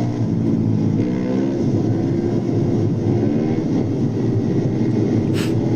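Vehicle engine running steadily with a low drone whose pitch wavers slightly in the first second or so.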